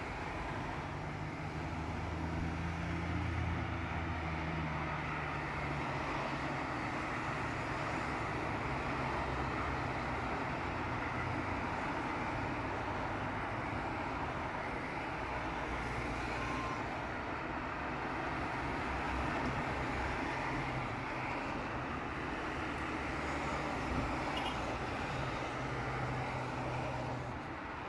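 Steady road-vehicle noise with a low engine hum that rises and falls.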